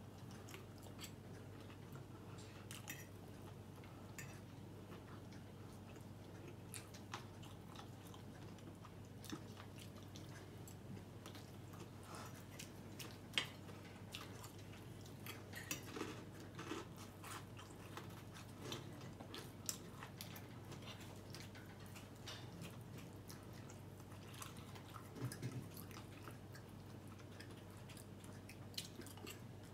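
A man chewing food at close range, with scattered faint clicks and crunches over a faint steady low hum.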